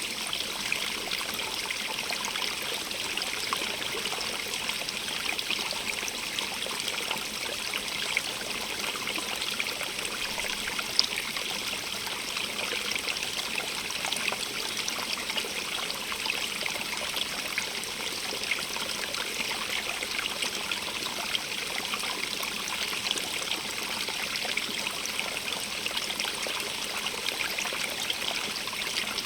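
Stream of running water, bubbling and trickling steadily over stones, a close, hissy splashing. A single sharp splash or plop stands out briefly about eleven seconds in.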